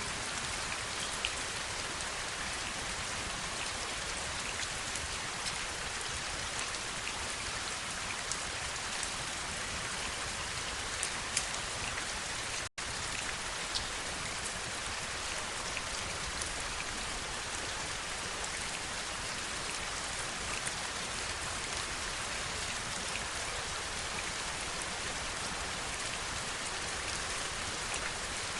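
Steady heavy rain: a dense, even hiss with scattered individual drops ticking sharply over it. The sound cuts out for an instant about halfway through.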